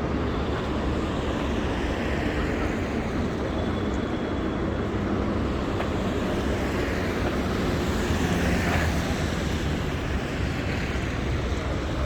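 Steady city street traffic: engines running and tyres hissing on a rain-wet road.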